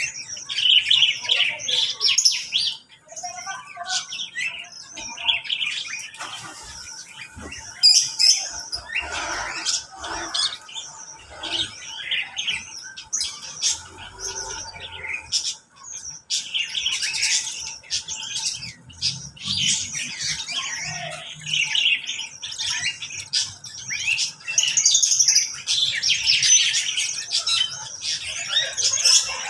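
Mixed flock of aviary cage birds chirping and calling over one another in a continuous, high-pitched chatter, thinning for a few seconds mid-way and growing busier again in the second half.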